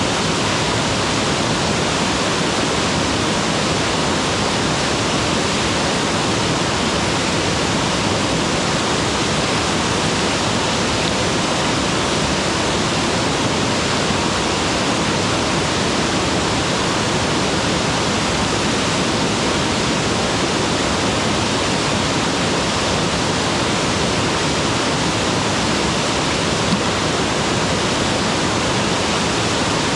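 Mountain waterfall, water pouring and splashing steadily in a loud, even rush with no breaks.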